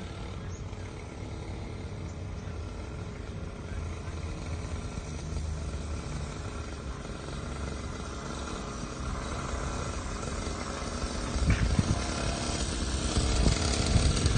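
Small kids' dirt bike engine running steadily, growing louder over the last few seconds.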